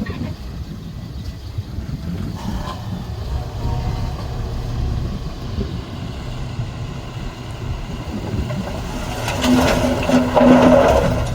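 Heavy diesel earthmoving machinery running with a steady low rumble. Near the end it grows louder, with a pulsing hum and metal clanks.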